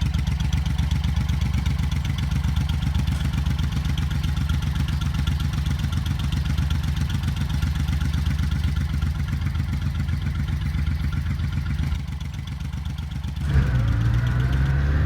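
Motorcycle engine running steadily with a fast, even firing pulse. About twelve seconds in it drops back briefly, then its pitch climbs as it accelerates near the end.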